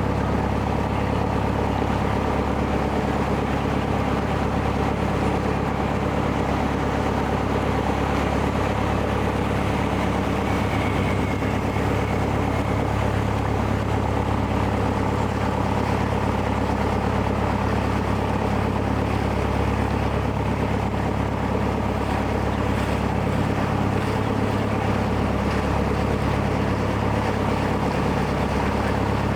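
Engine of a small harbour ferry boat running steadily while under way, a constant low drone with water noise over it.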